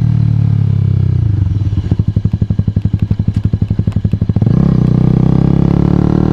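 2012 Honda CBR250R's single-cylinder engine slowing down, its pitch falling until it settles into a fast, even putting of separate firing pulses at low revs. About four and a half seconds in, it gets louder and revs up, the pitch rising as the bike accelerates away.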